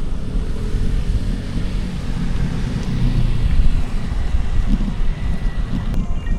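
Steady low rumble of wind buffeting a bike-mounted camera's microphone while riding a mountain bike, mixed with tyre noise on the road.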